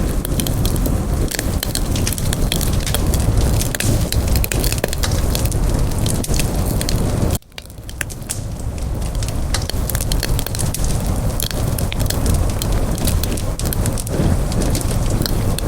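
Wood campfire burning, with a steady low rumble and dense sharp crackles and pops. About halfway through, the sound cuts out abruptly for a moment and then fades back in.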